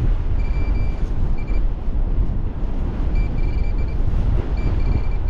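Gale-force wind buffeting the microphone with a heavy, rumbling roar, and over it a metal detector's high, steady beep sounding in four short bursts as the detector responds to a target.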